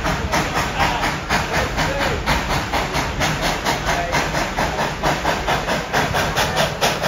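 Steam locomotive working under way, its exhaust chuffing in a fast, even rhythm of about four beats a second with a steady hiss of steam.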